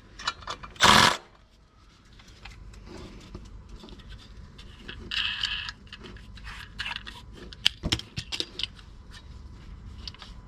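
Clinks, knocks and scrapes of metal tools and parts being handled under a car, with a loud knock about a second in and a brief hissing noise about five seconds in.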